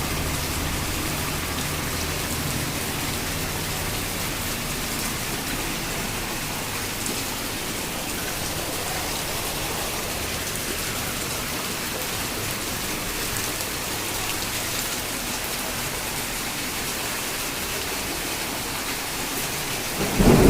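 Heavy rain pouring down steadily, an even hiss. A low hum at the start fades out within a couple of seconds, and a brief louder low thump comes at the very end.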